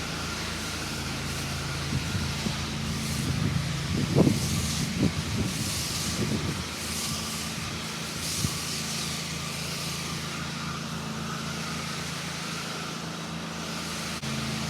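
Pressure washer spraying a hissing jet of leftover bleach solution from its lines onto dirty spots, over the steady hum of the running machine. The spray grows louder and uneven about four to seven seconds in, then settles back to a steady hiss.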